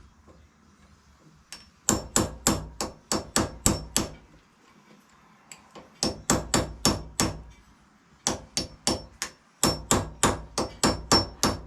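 Rapid light taps of a claw hammer on a small chisel, metal on metal with a bright ring, about four or five strikes a second in runs of several with short pauses between. The chisel is tapping round a snapped Allen bolt stub to unscrew it.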